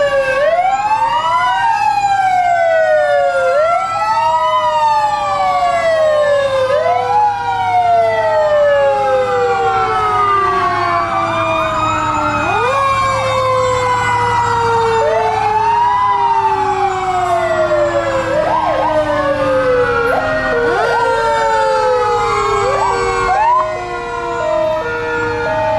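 Several fire truck sirens sounding together. A mechanical siren, the Federal Q type, winds down in long, slowly falling tones, over electronic wail sirens rising and falling every second or two. Near the end a faster yelp and an alternating two-note tone join in, over a steady low engine hum.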